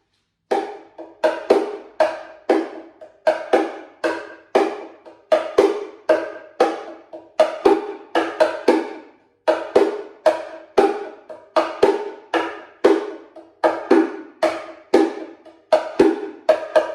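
Bongo Cajon, a small handcrafted wooden box drum, played with the hands in a steady alternating right-left groove of about three to four strokes a second, mixing accented strokes and softer ghost notes, each with a short woody ring.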